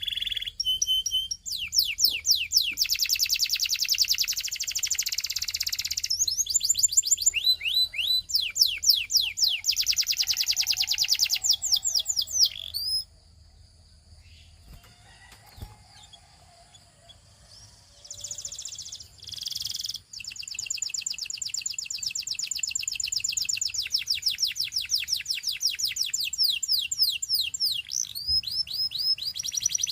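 Belgian singing canary singing: fast trills of quick, repeated, falling whistled notes. The song breaks off for several seconds around the middle, then resumes with a long, rapid trill.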